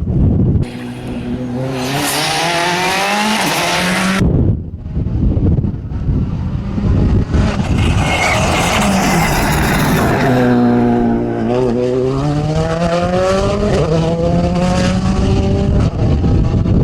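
Rally car engine revving hard past the roadside on a special stage, the pitch climbing and dropping back at each gear change, in two separate passes, with wind rumbling on the microphone.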